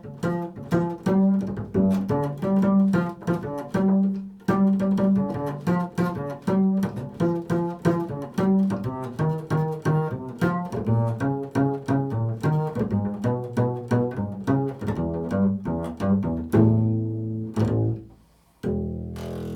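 Improvised solo music on a plucked string instrument: a fast, continuous run of low-pitched plucked notes, breaking off briefly near the end before ringing notes resume.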